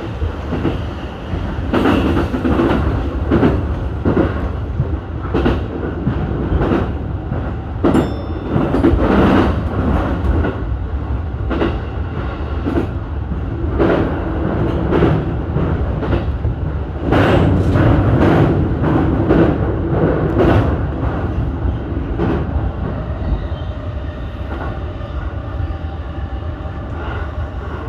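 Keihin-Tohoku Line E233-series electric train running at speed between stations, heard from inside the front car: steady rumbling running noise with repeated clacks of the wheels over rail joints, growing louder in stretches.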